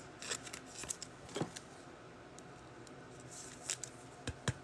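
Trading cards being handled and flipped: a few soft, scattered clicks and scrapes.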